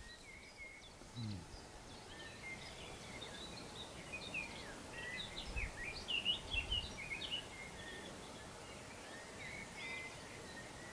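Wild birds singing: many short chirps and whistles, busiest from about four to seven seconds in. A few low thuds sound underneath.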